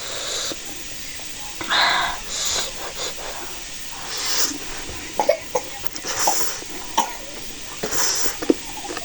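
A person eating very spicy instant noodles, drawing sharp hissing breaths through the mouth about every two seconds against the chilli heat, with small clicks and smacks of chewing in between.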